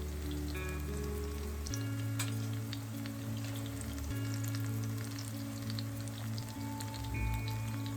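Soft background music of held notes, over a steady crackling patter of faint ticks.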